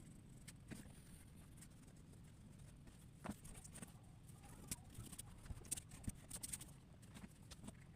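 Faint scattered ticks and short scratches of drawing on paper, over a low steady hum.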